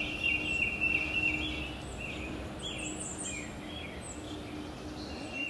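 Birds calling: a quick run of short, repeated high notes in the first two seconds, then scattered chirps, over a faint steady low hum.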